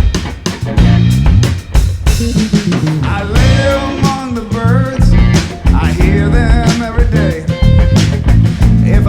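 A power-trio rock band playing: drum kit, bass and guitar, with a melody of bending notes coming in about three seconds in.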